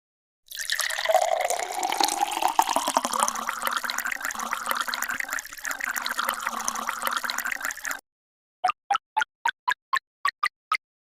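Liquid pouring into a container for several seconds, its tone rising steadily as the container fills; it cuts off suddenly about 8 s in. Then a row of short, evenly spaced ticks follows, about four a second.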